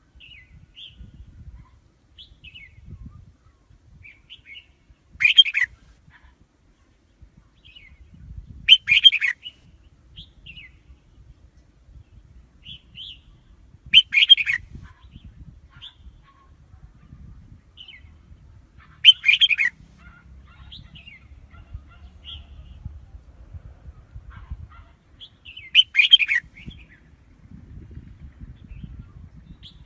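Red-whiskered bulbul singing: five loud, short song phrases about five seconds apart, with softer scattered chirps between them.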